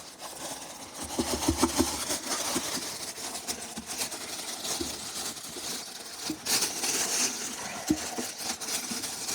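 Rustling and crackling handling noise with many scattered small clicks, as seeds and bread are put into a bird feeder.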